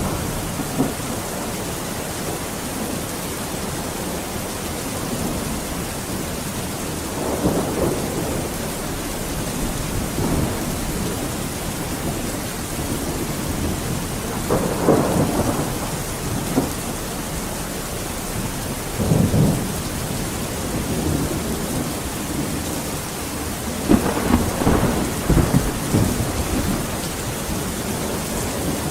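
Steady rain falling, with low rolls of thunder swelling up about four times.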